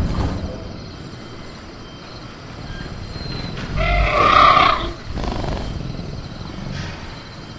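Velociraptor creature sound effect: a harsh, pitched growling call lasting about a second near the middle. Weaker growling or rattling noises come just before and after it, over a jungle night ambience.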